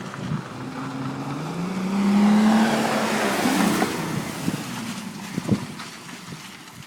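Porsche Cayenne Turbo's twin-turbo V8 accelerating hard through its very loud exhaust, the engine note climbing in pitch and growing louder, then fading away after about four seconds.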